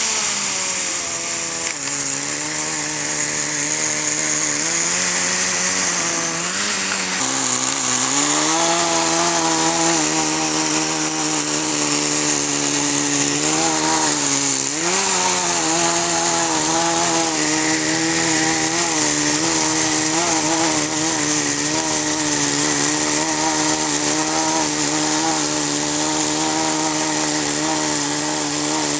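Kyosho Nitro Blizzard's small nitro glow engine running. It drops from a higher speed to idle over the first two seconds, then idles steadily with a few short throttle blips, the sharpest about halfway through. It is being run at low speed while the idle mixture is tuned.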